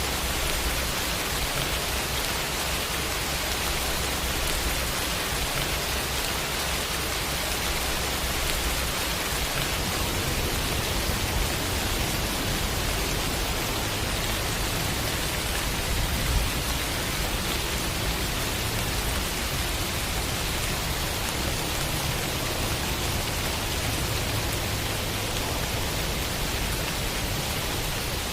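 Steady rain falling, an even hiss with no breaks, and a single brief low thump about sixteen seconds in.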